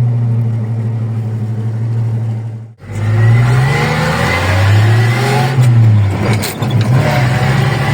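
1941 Chevrolet AK's six-cylinder engine running steadily, then, after a brief cut about three seconds in, revving up and easing off twice as the truck is driven. A few light clicks come near the end.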